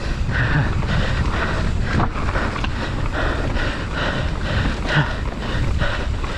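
Mountain bike riding down a bumpy trail: tyres rolling over dirt and stones, with the bike rattling and knocking over the bumps.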